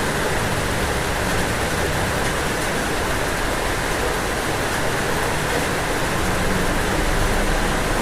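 Steady rain falling on a roof, an even hiss with no breaks.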